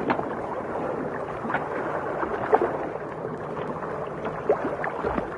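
Underwater water ambience: a steady watery rush with scattered small clicks and bubbling sounds.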